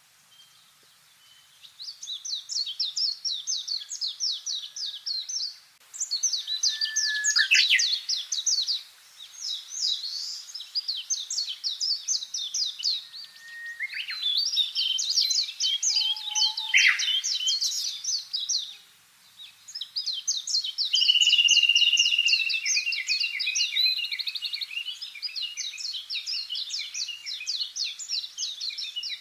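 Songbirds singing: long, fast trilling songs of rapid high notes, one phrase after another with short pauses and sometimes two birds overlapping, starting about two seconds in.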